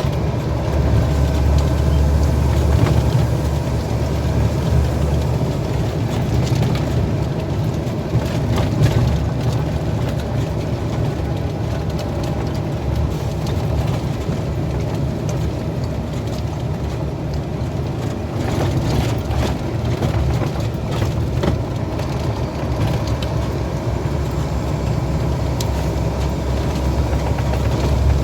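Heavy truck on the road: a steady low engine drone mixed with road noise, with a few faint clicks here and there.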